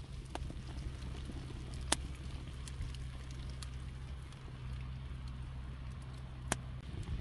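Wood campfire crackling, with three sharp pops over a low, steady rumble.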